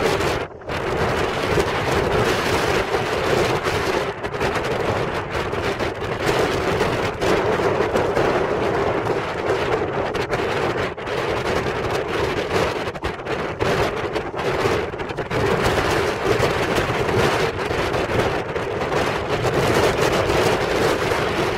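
Continuous roar of heavy surf and strong wind, with the wind buffeting the microphone in rough, crackling blasts.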